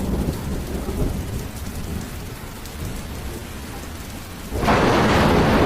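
Heavy storm rain with a low rumble, which suddenly grows much louder about four and a half seconds in.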